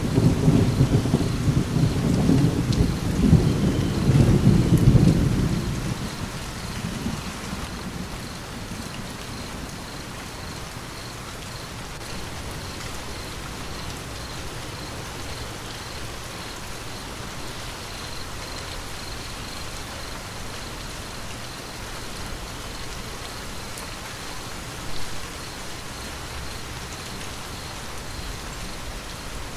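Thunder rumbling loudly at the start and fading away over about six seconds, over steady rain falling. A short louder patter of rain comes near the end.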